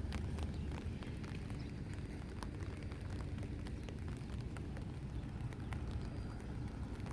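Rain falling, with many scattered drops ticking irregularly over a steady low rumble.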